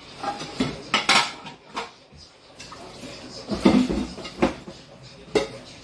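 Irregular clattering and clinking of hard objects being handled, a string of sharp knocks with a heavier clunk about three and a half seconds in.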